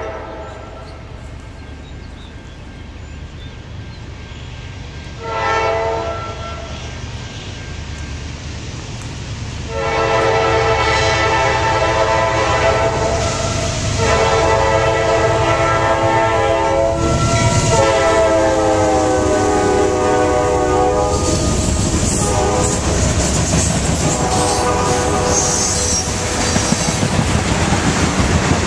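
Freight locomotive horn sounding for the crossing: a short blast, then several long blasts that drop in pitch as the locomotive passes. The horn gives way to the rumble of the freight train going by, with the clickety-clack of wheels over the rail joints as tank cars and covered hoppers roll past.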